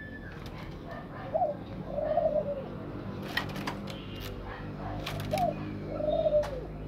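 A bird's low cooing call of two notes, a short one and then a longer drawn-out one, given twice. Several sharp clicks sound between the two calls.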